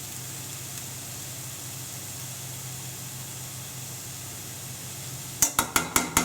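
A pan of grated mushroom, onion and carrot on a low gas flame gives a steady soft hiss. Near the end comes a quick run of sharp metal knocks, a spoon against the pan.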